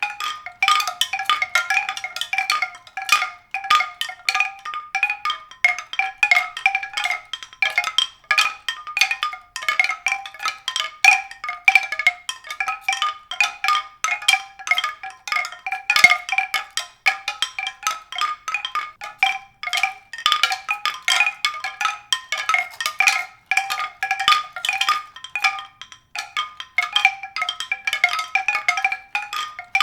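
Tuned percussion: a few high notes struck over and over, quickly and irregularly, several strikes a second, without a break.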